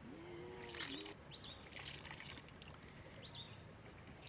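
Faint river water sloshing and trickling, with two short high bird chirps, one about a second in and one about three seconds in.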